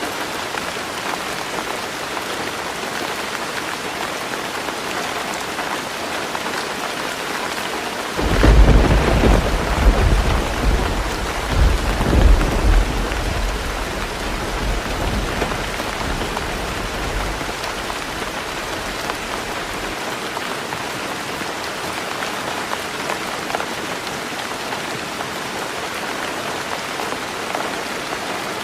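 Heavy rain drumming steadily on a tin roof. About a third of the way in, thunder breaks in suddenly with a deep rumble that swells in several peaks and then fades away under the rain.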